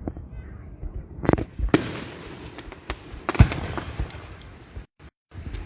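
Aerial fireworks exploding: several sharp booms, the loudest about three and a half seconds in, with crackling between the bursts. Near the end the sound briefly cuts out twice.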